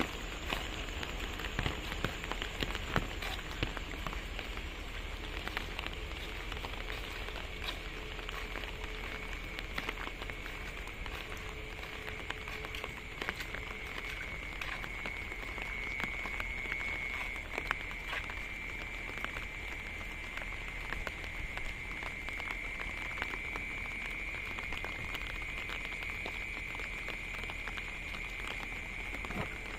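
Light night drizzle pattering on wet ground, puddles and roofs, with many scattered drops ticking close by. A steady high-pitched chorus runs underneath and grows stronger about halfway through.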